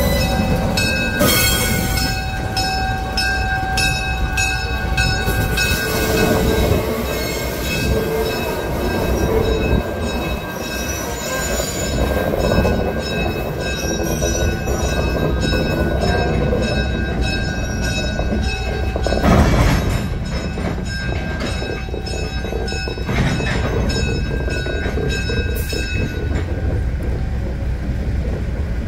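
GE 25-ton diesel locomotive hauling an open gondola slowly past. The engine runs close by at first, then the wheels roll on with steady high-pitched squealing and clicking on the rails. A louder clank comes about twenty seconds in.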